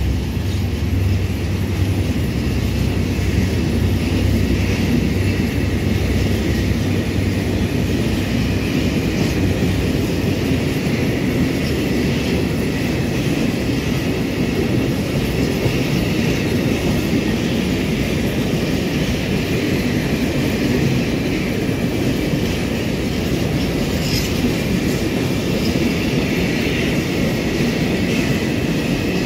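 Freight wagons rolling past steadily, wheels clattering over the rails with some wheel squeal. A low diesel drone, likely from the EMD GT22HW-2 locomotive, fades out over the first several seconds.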